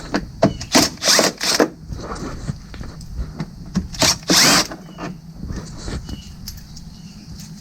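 Cordless Milwaukee bit driver with a Torx 20 bit running in short bursts, backing out the Torx screws that hold a plastic splash guard: several quick runs in the first two seconds and a longer one about four seconds in.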